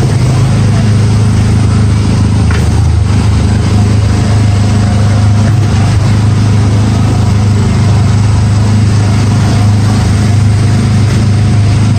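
Loud, steady low hum of a running motor with mechanical noise over it, unchanging throughout.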